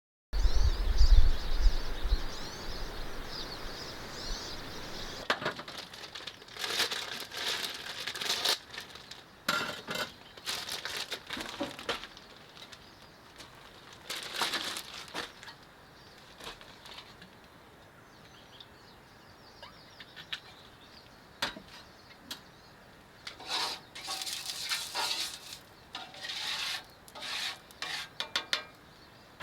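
Small birds chirping over a low rumble for the first few seconds, then a string of short, irregular rustling and knocking noises.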